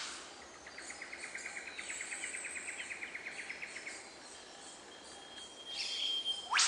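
A bird's rapid, even trill of about ten notes a second, lasting some three seconds, over faint high chirping. A louder call begins near the end.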